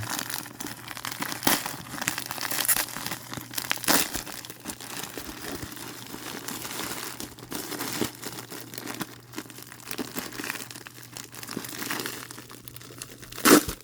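Plastic bubble wrap being unwrapped and handled: continuous crinkling and rustling with many sharp crackles, and one loud crackle near the end.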